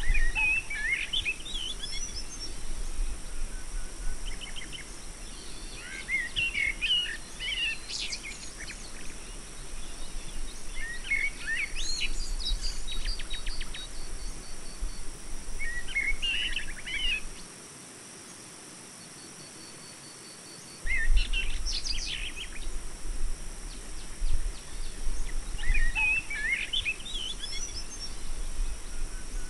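A bird singing short chirping phrases every few seconds over a steady high hiss and a low rumble; the rumble stops for about three seconds past the middle.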